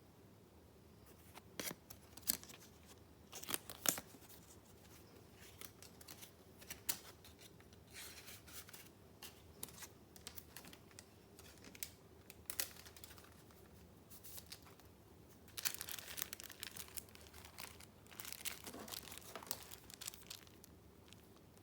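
Paper being handled: sheets and card crinkling and rustling, with scattered sharp ticks and taps and two longer spells of denser crinkling in the second half.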